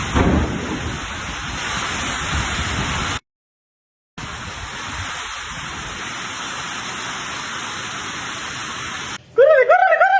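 Steady rushing hiss, broken by about a second of dead silence a little over three seconds in, then resuming. Shortly before the end it gives way to rhythmic laughing.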